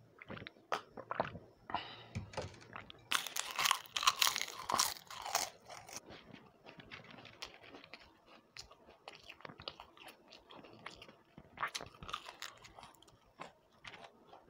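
Close-up chewing and crunching of crisp fried snacks. A loud spell of crunching comes about three to six seconds in, then quieter chewing with scattered crisp crunches.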